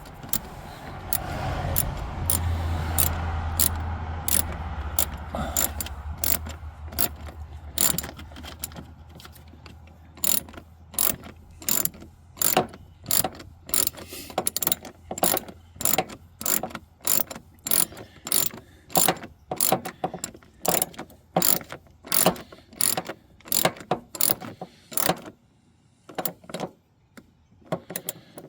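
Hand ratchet clicking in a steady rhythm, about two clicks a second, as a screw is run in. The clicking starts about eight seconds in and stops shortly before the end. Before it there is a low steady hum.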